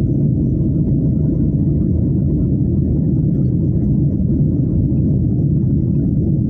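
Airliner cabin noise: a steady low rumble of the engines and airflow heard from inside the passenger cabin during descent.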